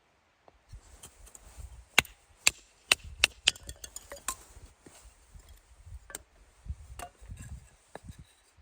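Firewood being split and handled for a campfire: a series of sharp knocks and cracks, most of them bunched about two to four and a half seconds in, with a few more later and quieter rustling and handling in between.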